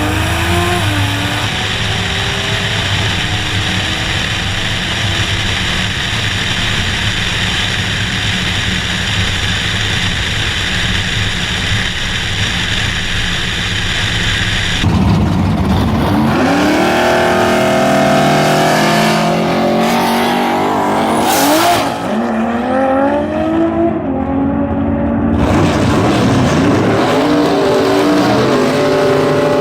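Drag car engine held at high revs with tires spinning, a steady loud roar typical of a burnout. About halfway through it gives way abruptly to the engine revving up and down in pitch several times, as in a launch and run through the gears.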